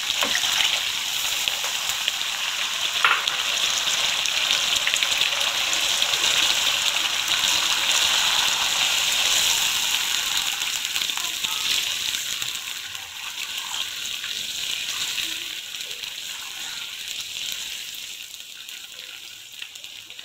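Fish and masala sizzling in hot oil in a kadhai as a cup of water goes in to make the gravy. The sizzle fades gradually over the second half as the water takes the heat and the pan settles to a quieter bubble.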